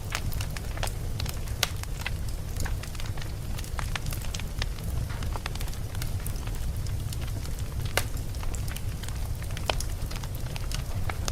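Campfire burning: wood crackling with irregular sharp pops, one stronger pop about eight seconds in, over a steady low rumble.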